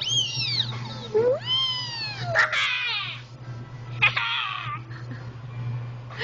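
A young child imitating a fire truck siren, four high wailing calls that rise and fall in pitch.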